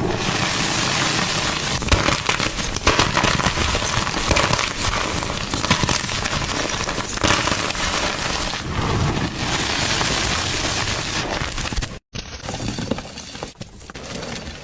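Gym chalk being crushed: dense, crunchy crackling. About twelve seconds in it cuts out briefly, then resumes as quieter, sparser crunching.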